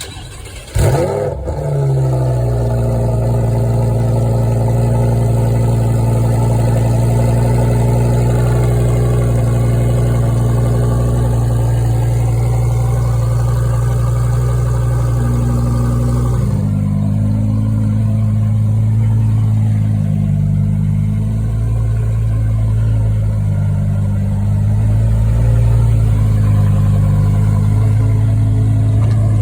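A car engine starts about a second in, flares briefly, then settles into a steady idle that goes on, changing in character around the middle.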